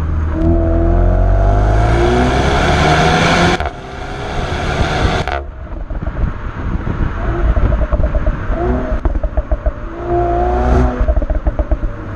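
Renault Mégane RS's 1.8-litre turbocharged four-cylinder accelerating hard with its pitch rising, then a brief dip in level about three and a half seconds in. After about five seconds the higher engine sound cuts off suddenly and the engine settles into an uneven, pulsing rumble.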